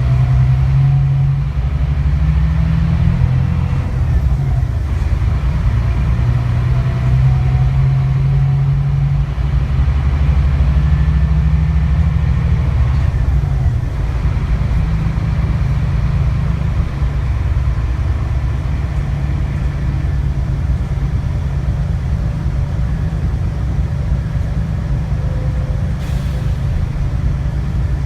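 Scania K360IB bus's diesel engine running steadily under way, a low rumble whose note swells and eases several times as the bus drives.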